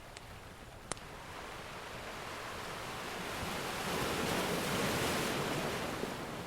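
Ocean surf: one wave swells in over a few seconds, peaks, and eases back. A few crackling pops from a wood fire sound over it, one sharp pop about a second in.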